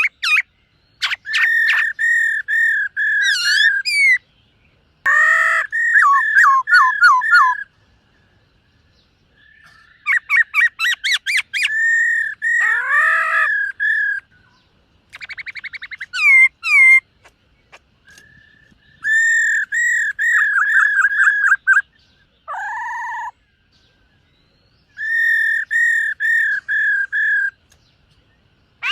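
Black-throated laughingthrush singing: loud phrases of clear, repeated whistled notes, each bout lasting a few seconds with short pauses between, including a fast trill and a lower, held note.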